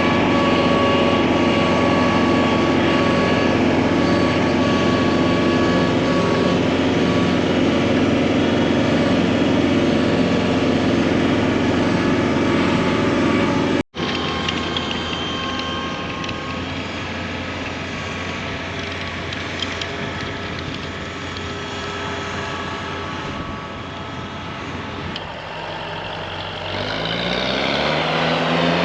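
Engine of a farm machine clearing snow, running steadily under load. A cut about 14 seconds in leads to a quieter stretch, and near the end the engine revs up in a rising pitch.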